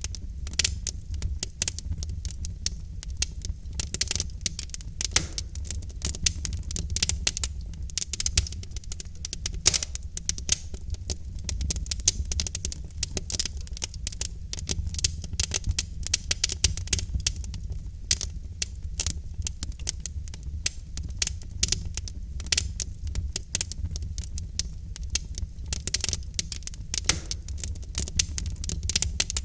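Wood fire of burning logs in a fireplace crackling, with many irregular sharp pops and snaps over a steady low rumble of the flames.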